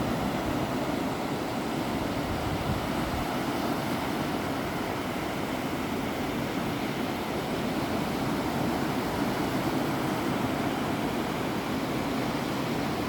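Ocean surf on a beach, a steady even rush of waves without distinct single breakers.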